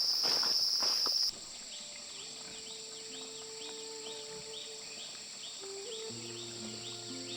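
Footsteps walking amid a loud, steady insect drone, both cutting off suddenly about a second in. Then a quieter insect chorus with a regular chirp about twice a second, under soft sustained music notes.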